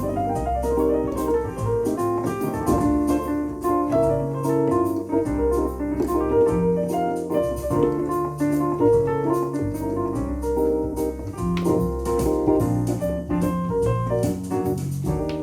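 Korg Pa1000 arranger keyboard playing a piano-type voice over an auto-accompaniment style, with a bass line moving every second or two under chords and melody, and light ticking percussion.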